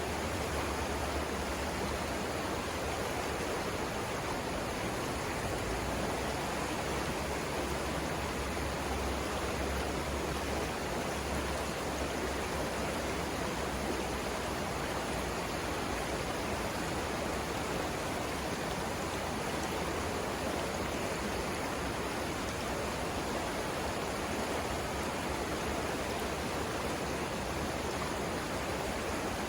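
Savannah River water rushing steadily, an even unbroken wash with no change.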